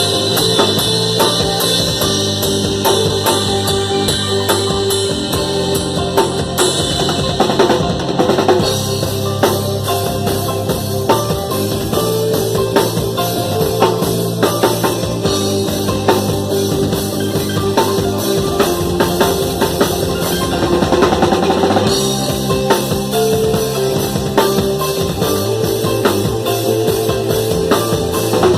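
Drum kit played with a band during a soundcheck: a steady beat of kick, snare and cymbals over sustained bass and other instruments.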